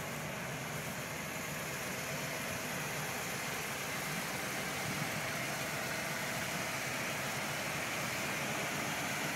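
1978 Chevrolet Blazer Cheyenne's engine idling steadily.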